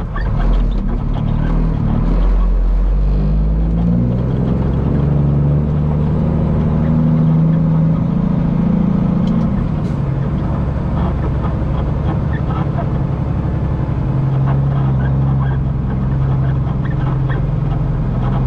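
Peterbilt semi truck's diesel engine pulling under power, its note climbing for several seconds, then dropping back about halfway through and running steady.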